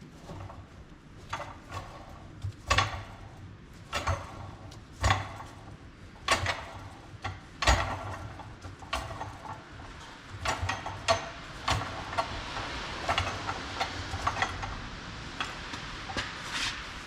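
Irregular sharp knocks and clicks of hand tools and metal parts being handled, about one a second, some ringing briefly, with a steadier hiss in the later part.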